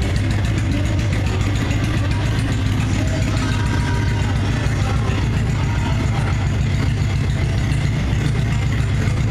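Motorcycle engine running steadily with a deep, even hum.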